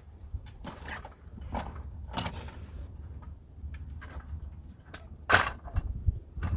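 Intermittent knocks, clicks and rattles of hands working on hardware, the loudest about five seconds in, over a low steady rumble.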